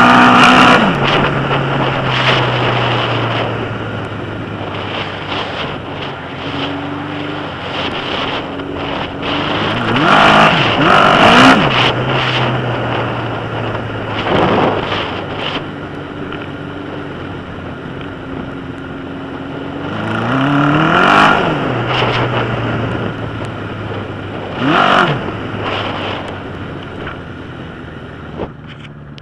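Straight-piped 1981 Suzuki GS1000 inline-four running on a ride, holding steady revs between about four sharp rises in revs that climb and drop back.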